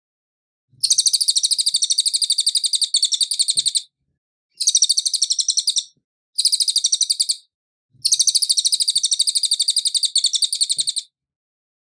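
Cililin singing: four bursts of a rapid, even, high-pitched trill, the longest about three seconds, separated by short pauses.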